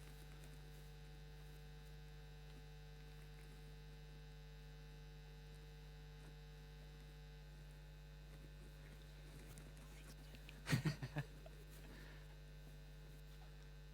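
Steady electrical mains hum, a low buzz with a faint higher overtone, heard with the air conditioners switched off. A brief voice-like sound comes about eleven seconds in.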